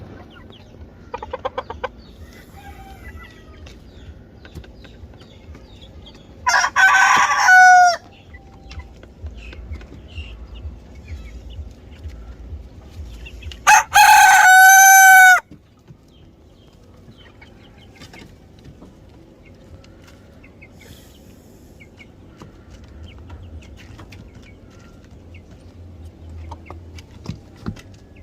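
A rooster crowing twice, each crow loud and about a second and a half long, the calls several seconds apart. Between the crows come a short call and faint, scattered clucks.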